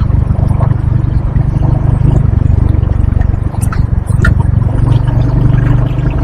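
Steady low rumble of wind rushing over the microphone of a motorcycle moving at highway speed, with the bike's running engine underneath.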